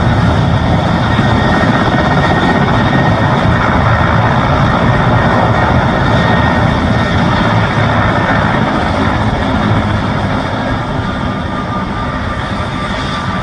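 Mil Mi-17 helicopter running loud and steady, its turbine engines and rotor making a dense, even roar with a deep rumble; the roar eases off slightly near the end.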